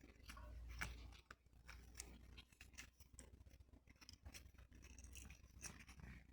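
Faint, irregular clicks and light taps from hands working on small parts, over a low steady hum.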